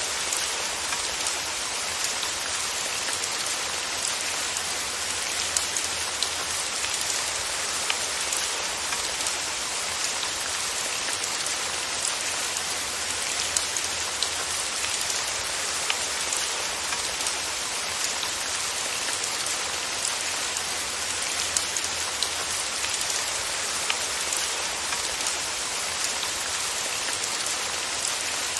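Steady rainfall, a continuous hiss with many small drop ticks scattered through it.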